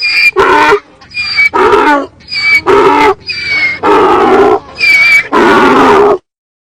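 An animal calling over and over, loud pitched calls about two a second, stopping abruptly about six seconds in.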